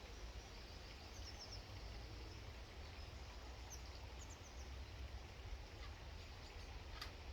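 Faint outdoor background noise with a steady low rumble, with a few short, high chirps of small birds about a second in and again around four seconds. A single sharp click near the end.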